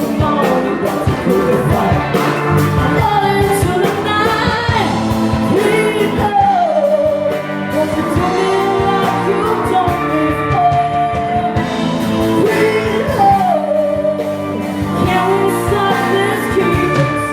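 Live rock-blues band playing, with a lead singer holding long notes that slide up and down in pitch.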